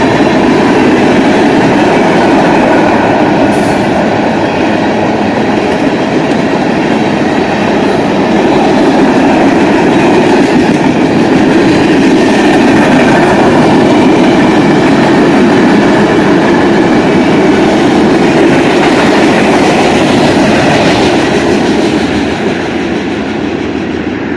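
Loud, steady rumble of a long freight train of tank cars and covered hopper cars rolling past on the rails, easing off a little near the end as the last cars go by.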